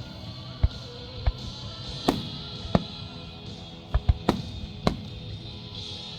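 Fireworks going off in a string of sharp bangs, about eight over a few seconds, several with an echoing tail, over music with held tones.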